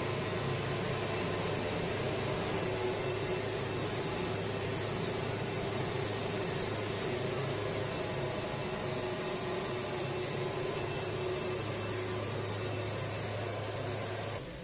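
Wood-Mizer LT70 band sawmill running steadily, its band blade cutting lengthwise through a cypress log on a full cut. A high hiss joins about two and a half seconds in, and the sawing stops just before the end.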